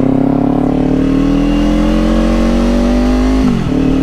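Kawasaki motorcycle engine pulling under acceleration, its pitch climbing slowly, then dropping sharply near the end as it shifts up a gear.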